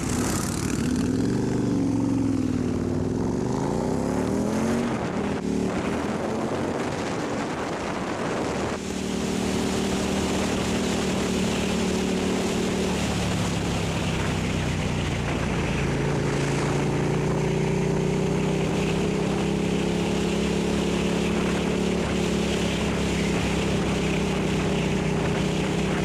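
Motorcycle engine pulling away and accelerating, its pitch climbing over the first few seconds, then running at a steady cruise with a continuous rush of wind noise.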